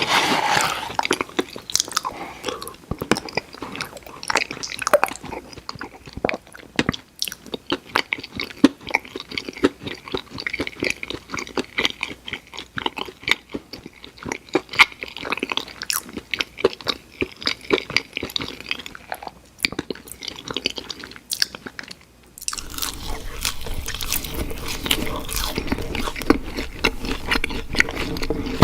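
Close-miked chewing and crunching of crispy fried food: irregular wet smacks and crackles of bites and mastication. There is a short pause about 22 seconds in, after which a low steady hum sits under the chewing.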